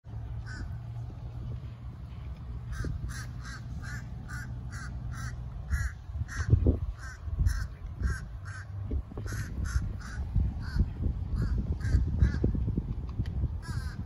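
A bird calling over and over with short harsh calls, about three a second, beginning about three seconds in and pausing briefly near the middle, over a steady low rumble.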